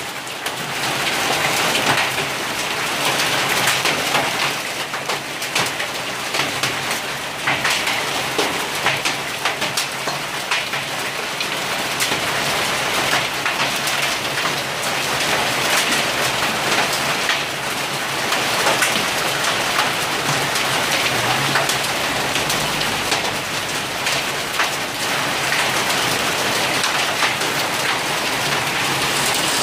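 Heavy hail falling: a dense, steady patter of hailstones striking hard surfaces, with many sharp ticks throughout.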